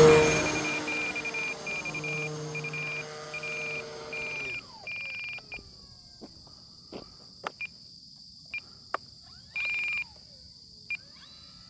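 Electric motor of an RC Cessna 182 flying past close, its pitch falling as it draws away and throttles down, then cutting off about four and a half seconds in. A high electronic beep pulses on and off through the first half and once more near the end. Once the motor stops, a steady high insect trill and a few faint clicks are left.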